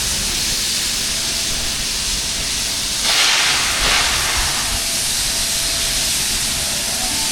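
Steam locomotive hissing as it vents steam while shunting, a steady rush of steam that swells louder about three seconds in.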